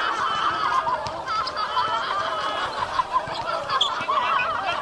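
Basketball shoes squeaking on an indoor court: many short, quick squeaks overlapping one another.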